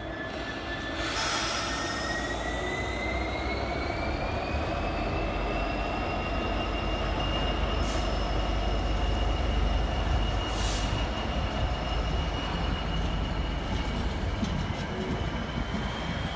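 Class 66 diesel-electric freight locomotive pulling away under power: a steady rumble with a thin high whine that climbs slowly in pitch as it accelerates. Short bursts of hiss come about a second in, near the middle, and a couple of seconds later.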